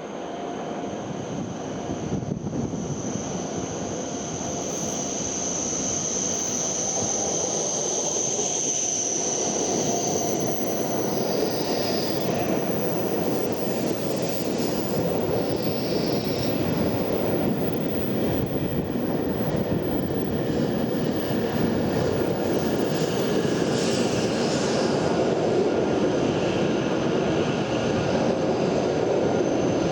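Hokuriku Shinkansen train running through the station, a loud steady rushing that grows over the first several seconds and then holds. A thin high whine sits over it and fades about ten seconds in.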